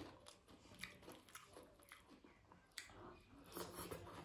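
Quiet close-miked chewing of a hand-fed mouthful of rice and vegetables, with irregular soft wet mouth clicks and smacks.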